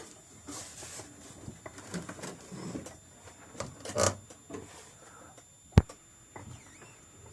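Light knocks and scuffs from the LuAZ-969's steering linkage as the wheel is turned to the other lock, with no squeak now that the joints have been greased and given new boots. One short, sharp thump comes about six seconds in.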